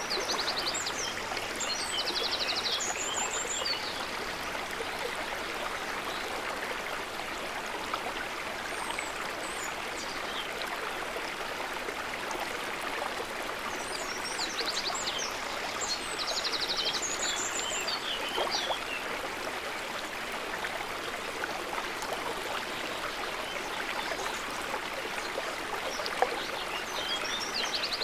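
River water running steadily over stones, a continuous rushing and trickling. Groups of high bird chirps and quick trills come in near the start, again about halfway through, and at the end.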